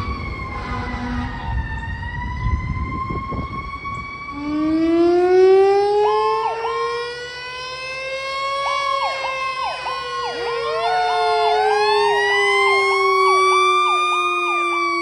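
Several fire truck sirens sounding together as the apparatus respond: a slow wail with a truck engine rumbling under it at first, then a deeper siren tone coming in about four seconds in, rising slowly and then sinking, while a rapid repeating siren pattern cycles over it.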